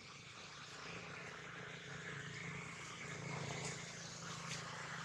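A steady low motor hum that slowly grows louder.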